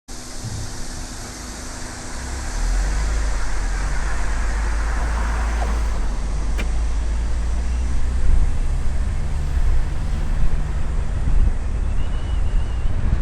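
Vehicle on the move, with steady engine and road noise and wind buffeting the microphone. It grows louder about two and a half seconds in, and there is a single sharp click partway through.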